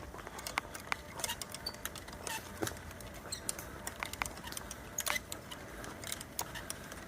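Scattered raindrops tapping irregularly, close to the microphone, over a faint steady hiss: the first drops of a light rain.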